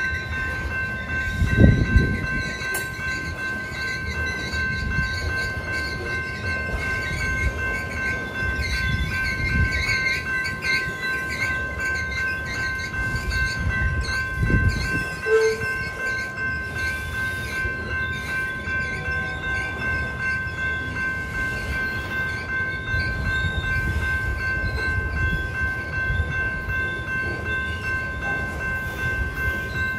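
Covered hopper cars of a BNSF grain train rolling through a road crossing, the wheels rumbling on the rails, with a louder thump about two seconds in and another about fourteen seconds in. Over it the crossing's General Signals type 2 electronic bell rings steadily.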